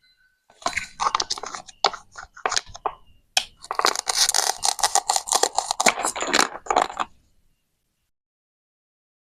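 A plastic toy knife cutting and scraping through plastic toy vegetables: a rapid run of scrapes and clicks for about six seconds, then it stops.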